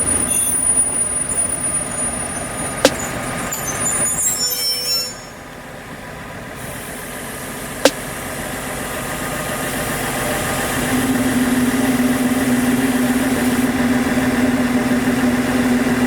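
Train running along the track: a continuous rumble with two sharp clicks, and a steady hum that grows louder and holds over the last few seconds.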